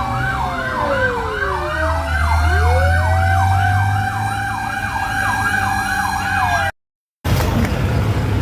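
Fire engine sirens sounding on an emergency response: a fast yelp repeating about three times a second, with a second siren tone sliding down and back up, over the low rumble of the truck's engine. The sirens cut off suddenly near the end, leaving engine and traffic noise.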